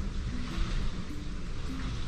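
Background music with a simple melody over a steady low rumble and hiss of strong typhoon wind.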